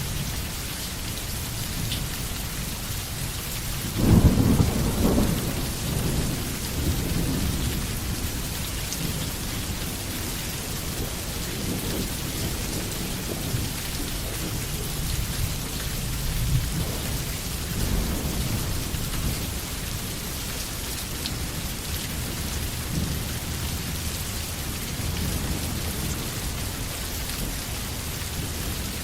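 Steady rain falling, with a sudden low thunderclap about four seconds in that rumbles on and fades over the next few seconds; fainter rumbles return later.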